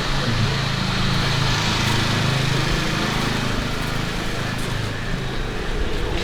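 A small engine running steadily close by, swelling a little about a second or two in and easing off near the end.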